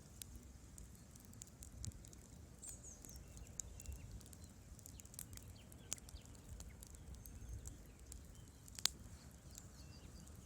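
Wood fire crackling: scattered sharp pops and ticks over a low rumble of the flames, with one loud pop near the end.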